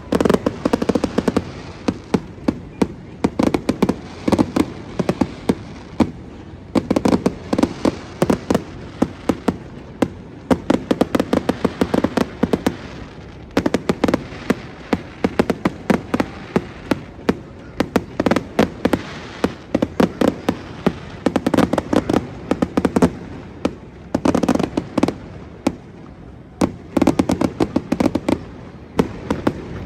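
Fireworks going off: a near-continuous run of sharp pops and crackles, bunched into denser volleys every couple of seconds.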